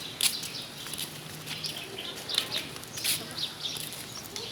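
Many small birds chirping, short high calls overlapping one another with no let-up.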